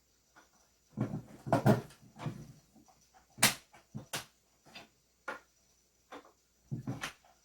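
Pen parts being handled and fitted together by hand: an irregular run of small clicks, knocks and short rubbing sounds. The sharpest click comes about halfway through.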